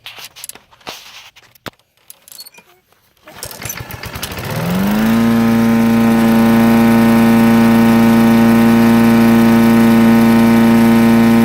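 A few light clicks, then the Briggs & Stratton 675 series lawn mower engine starts about three seconds in, rises in speed and settles into a steady, even run. It is held at a fixed speed by a governor arm tied off with weed eater string, standing in for a stretched air vane spring and a worn governor spring.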